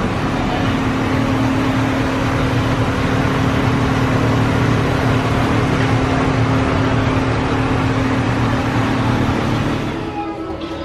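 A vehicle running steadily under way, a constant low hum over a rumble of running noise, easing off shortly before the end.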